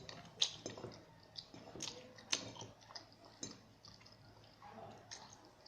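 A pet crunching dry cat kibble: a few faint, irregular sharp crunches.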